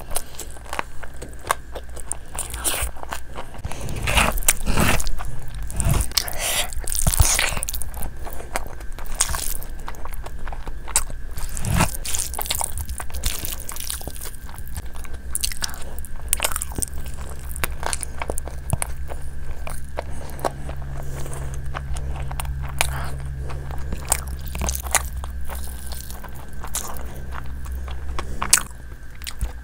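A person biting and chewing chicken and fried rice close to the microphone: a run of crunches and short clicky chewing noises, busiest in the first third. A low steady hum sets in about halfway and cuts off shortly before the end.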